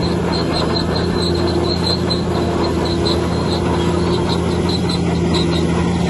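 Bulldozer's heavy diesel engine running steadily under load, with a high squeak repeating about three or four times a second.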